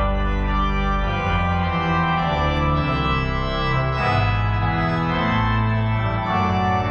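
Organ playing sustained chords over a deep bass line, the chords changing every second or so.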